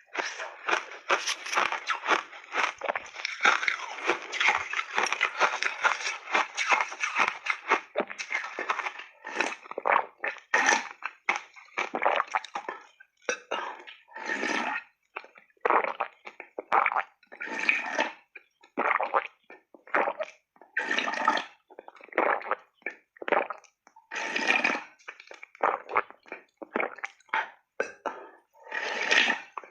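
Refrozen peach-berry ice being bitten and chewed, heard up close. There are about nine seconds of dense continuous crunching, then separate crunchy chews roughly once a second.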